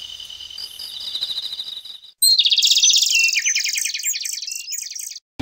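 A steady, high, pulsing insect trill that is cut off about two seconds in. After a brief silence comes a loud bird song of rapid trilled notes stepping down in pitch, which ends abruptly.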